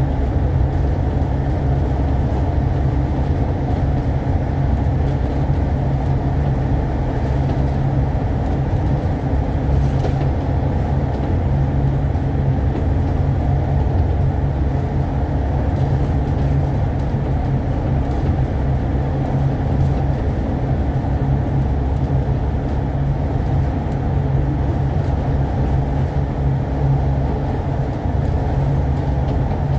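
Alexander Dennis Enviro500 MMC double-decker bus under way, heard from inside the cabin: a steady low engine drone with road and tyre noise, even throughout with no stops or changes.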